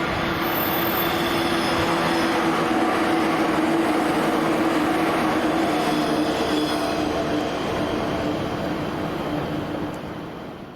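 185 series electric train running past at speed: a steady rush of wheels on rail and running gear with a sustained whine, fading away near the end.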